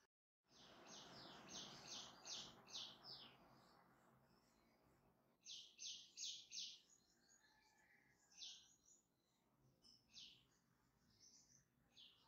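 Faint birds chirping in quick runs of short, high notes, about six in a row in the first few seconds and four more around the middle, then single chirps, with a soft rustling hiss under the first few seconds.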